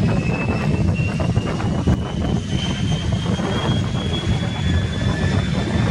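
Dassault Falcon 900LX business jet's three turbofan engines at takeoff power: a heavy low rumble with a high whine that rises slowly in pitch.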